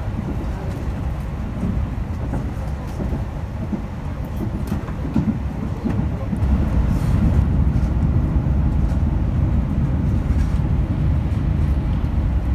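Running noise inside a moving express train's passenger car: a steady low rumble from the wheels on the rails, growing louder about six seconds in.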